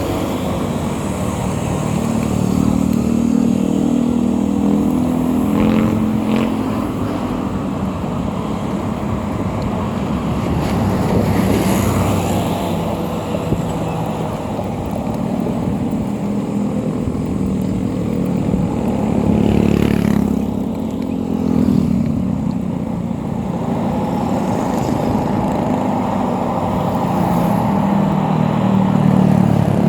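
Motorcycle engine running on the move, its pitch rising and falling with the throttle, over a steady rush of wind and road noise.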